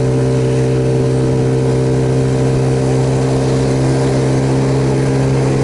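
Suzuki Yes single-cylinder motorcycle engine running at a steady, unchanging pitch while cruising, under a steady hiss of wind and rain.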